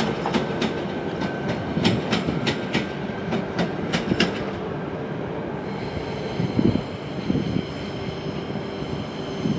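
Southeastern Class 395 Javelin electric train running along the track, its wheels clicking over the rails about three times a second. After about five seconds the clicking stops and a steady high electric whine takes over.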